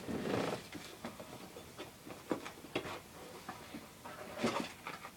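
Cardboard model-kit box being opened and handled: soft rustling and scraping, with scattered small clicks and knocks and a louder rustle near the end.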